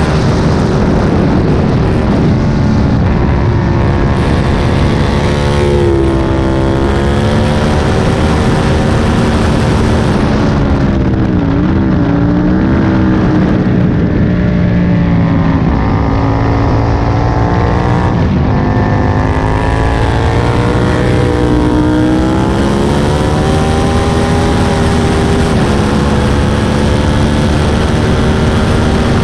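Aprilia Tuono 1000's V-twin engine at racing speed, heard on board: the revs drop sharply four times and climb back up each time as the bike slows for corners and accelerates out again.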